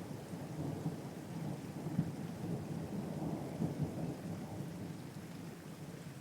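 A low rumble of thunder over steady rain, dying away near the end.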